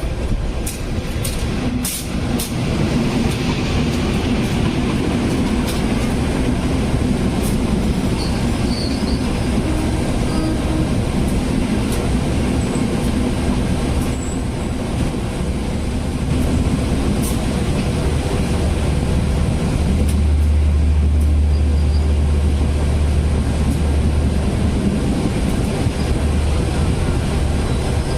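Passenger train running, heard from inside the coach right behind the diesel locomotive: a steady rumble of the running gear with scattered sharp clicks of wheels on the rails. About two-thirds of the way through, a deep low drone from the locomotive grows louder.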